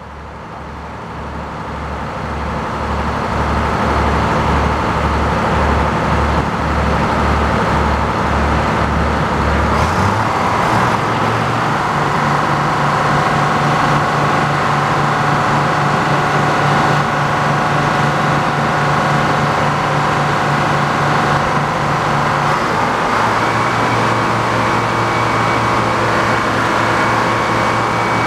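Engine-driven sawmill running and sawing a poplar log. The sound swells over the first few seconds and then holds steady, with its pitch shifting about ten seconds in and again near the end.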